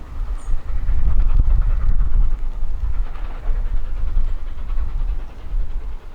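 LNER A4 Pacific steam locomotive No. 60007 Sir Nigel Gresley and its train running on the line, a steady heavy rumble with no distinct exhaust beat. Strong wind buffets the microphone and adds to the low rumble.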